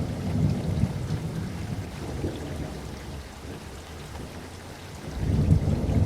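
Steady rain with rolling thunder: a low rumble in the first second, then a louder rumble swelling about five seconds in.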